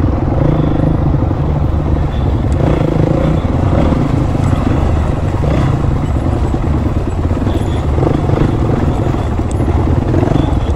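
Dirt bike engine running close by at a steady pace along a trail, with no clear rise or fall in revs.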